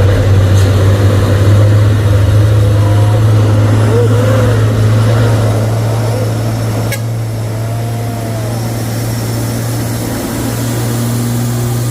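Heavy truck's diesel engine running under load on a steep climb, a steady low drone that eases off from about six seconds in as the truck moves on.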